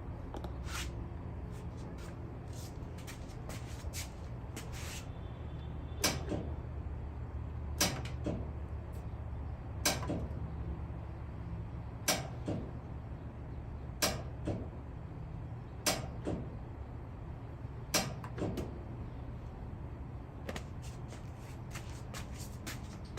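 Clothes dryer clicking but not starting: a sharp click with a short ring about every two seconds, over a steady low hum. The dryer's drive belt has broken.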